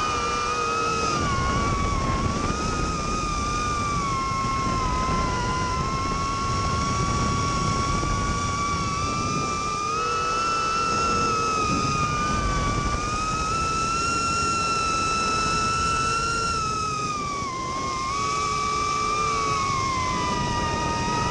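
Small FPV racing quadcopter's brushless motors and propellers whining in flight, the pitch rising and falling with the throttle and dipping briefly about three-quarters of the way through, over a rushing noise.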